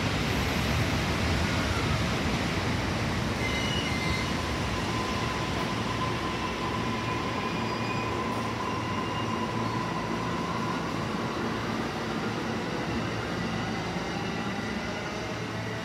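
Electric train running along the station track: a steady rumble of wheels on rail that slowly fades. Brief high squeals come a few seconds in, and a steady whine runs through the middle.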